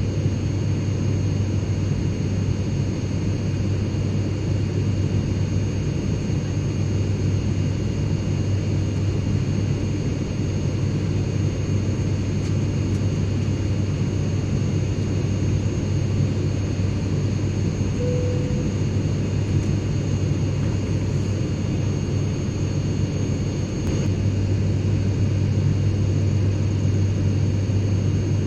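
Airplane cabin interior noise: a steady low drone under an even rushing hiss, with a faint high whine. Near the end it grows slightly louder.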